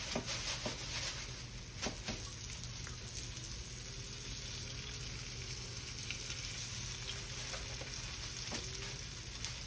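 Flour-dusted beef calf liver sizzling in hot vegetable oil in a skillet, a steady frying hiss with scattered crackles and pops.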